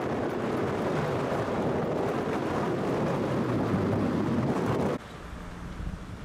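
Safari game-drive vehicle on the move: a steady rush of engine, tyre and wind noise that drops away sharply about five seconds in.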